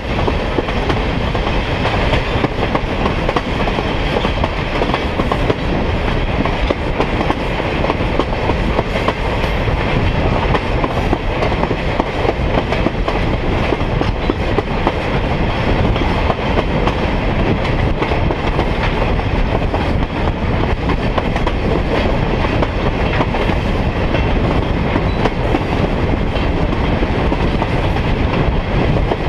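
Steady running noise of a moving passenger train: wheels rolling on the rails with the rumble of the cars, heard from aboard the train.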